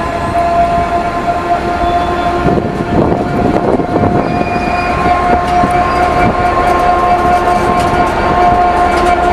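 Freight train of covered hopper wagons rolling past close by, wheels clattering and knocking over the rail, under a long steady metallic squeal that rises slightly in pitch near the end.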